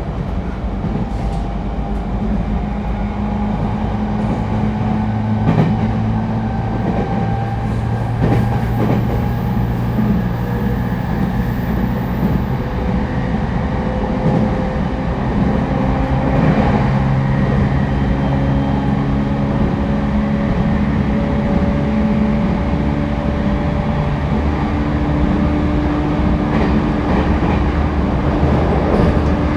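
Interior running sound of an E231-1000 series commuter train: steady rumble of wheels on rail with a low hum and a faint whine that slowly shifts in pitch.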